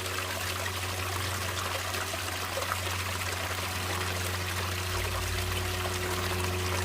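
Natural running water trickling and pouring steadily, with a steady low rumble underneath.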